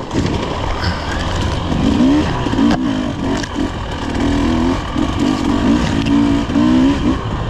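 Off-road vehicle engine pulling away and running along a dirt trail, its pitch repeatedly rising and falling with the throttle over a low rumble.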